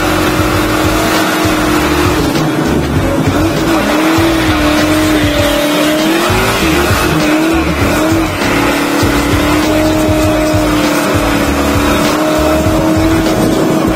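Car engine running hard at high revs, its note held high and wavering up and down.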